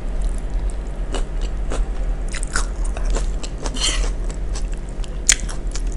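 Close-miked chewing and crunching of asinan sayur, a Betawi salad of raw cabbage, bean sprouts and lettuce in peanut sauce, as a mouthful is bitten and chewed. There is a single sharp click about five seconds in.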